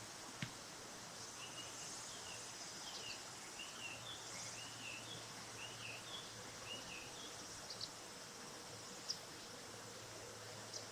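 Riverside ambience: a steady high insect buzz over a low background hiss, with a run of short, quick bird chirps in the middle and a few faint clicks.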